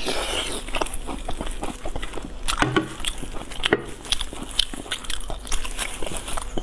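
Close-miked wet chewing and lip smacking as a person eats soft braised meat, with a dense, irregular run of small mouth clicks and smacks.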